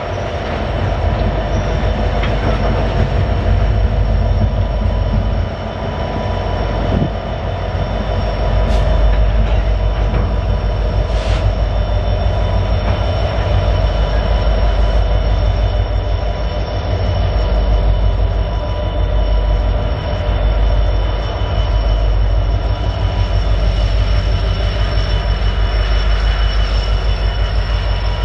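Freight train passing close by: a heavy, steady low rumble of wheels on rail, with a thin, steady wheel squeal above it.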